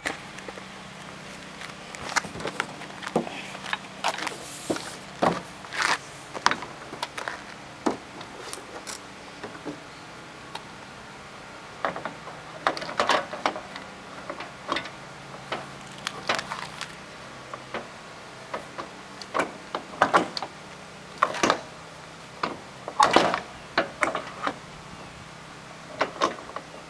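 Irregular clunks, clicks and rattles of a riding lawn tractor's hood being handled and fitted back into place, the knocks coming in scattered clusters.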